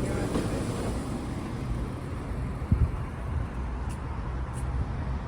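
Low, steady rumble of road traffic, with a single sharp knock a little under three seconds in.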